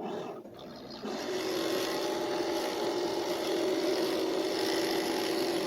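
Nespresso Vertuo Pop+ capsule coffee machine brewing: its motor and pump start up, then step up about a second in to a steady buzzing whir.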